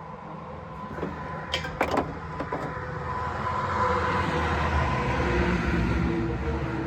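A motor vehicle's engine, growing louder over a few seconds and easing off near the end, like a vehicle passing; a few sharp knocks sound before it, about two seconds in.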